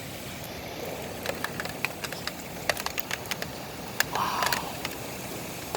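Steady hiss of heavy rain, with many scattered sharp drip taps and a short swell of noise about four seconds in.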